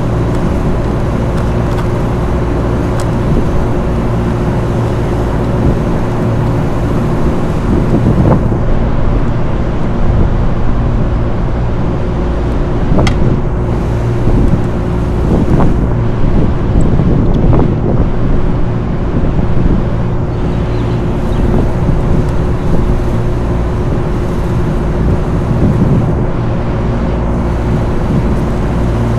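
Steady mechanical drone with a constant hum, with a few faint clicks and knocks scattered through it.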